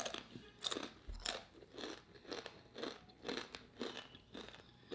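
A person chewing a crunchy homemade chip, in a steady rhythm of about two crunches a second.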